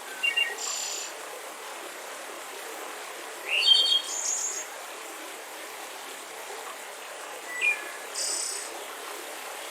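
Birds chirping in three short bursts of calls, one with a quick rising note, over the steady rush of a mountain river.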